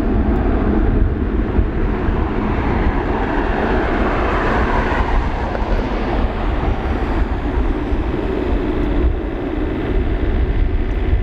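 Boeing 777-300ER's two GE90-115B turbofans running at takeoff thrust on the takeoff roll: a loud, steady jet rumble with a rasping hiss that swells over the first four or five seconds, then eases.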